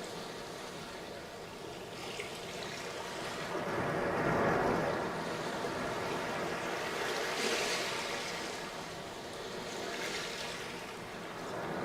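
Sea waves breaking on a sandy beach, the surf swelling and receding in a slow rise and fall, loudest about four seconds in and again near the middle.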